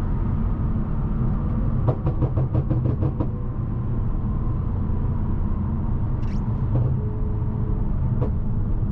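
Low, steady rumble of a BMW M550i's twin-turbo V8 and road noise, heard from inside the cabin while creeping along in traffic. About two seconds in, a quick run of light ticks rattles for just over a second.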